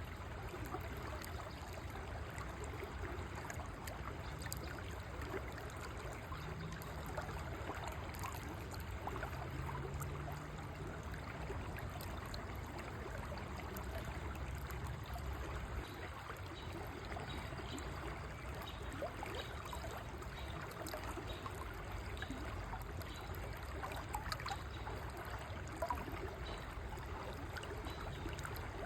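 River water flowing and babbling steadily over rocks.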